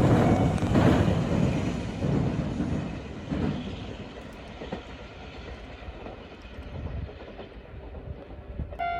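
Kintetsu electric train passing, wheels clacking over rail joints, its rumble fading away as it moves off.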